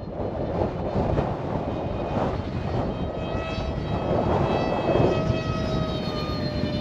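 Strong wind buffeting the microphone. From about three seconds in, the steady pitched whine of an aircraft propeller comes in over it and slides slightly lower in pitch.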